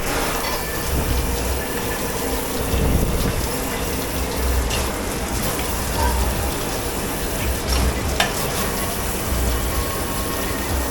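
Steady hiss of running or spraying water at a dish-pit sink, with a couple of sharp clinks along the way.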